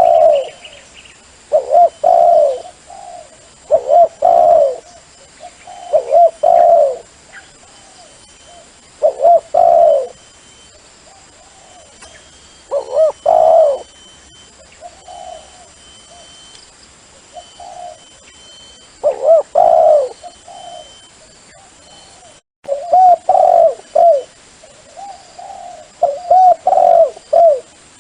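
Dove cooing, in repeated short phrases of low coos every two seconds or so, used as a lure call for decoying doves.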